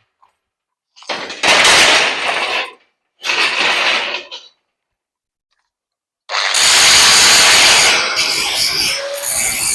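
Electric sander grinding down welds on a steel window grill: two short bursts, then continuous grinding from about six seconds in, with a steady motor whine under it near the end.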